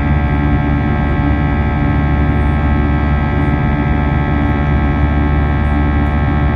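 Airbus A320 jet engines heard from inside the passenger cabin: a steady whine of many held tones over a strong low rumble.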